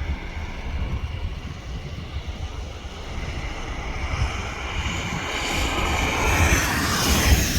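Low rumble of wind and road noise, with a passing vehicle that swells from about four seconds in, peaks near the end and drops away.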